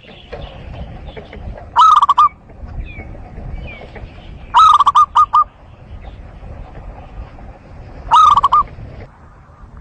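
Zebra dove cooing: three short phrases of quick, rolling coo notes a few seconds apart, with faint chirps of other small birds between them.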